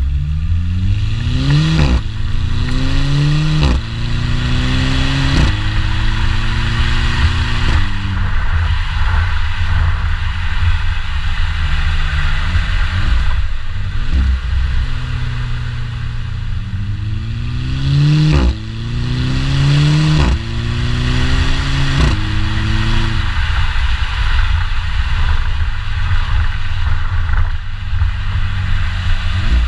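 VW Golf VI 2.0 TFSI turbo four-cylinder with an edel01 aftermarket exhaust, accelerating hard through the DSG gearbox. The engine note rises and then drops sharply at each quick upshift, three times near the start and three times around the middle, with a short crack from the exhaust at each shift. In between and near the end it runs steadily at lower revs.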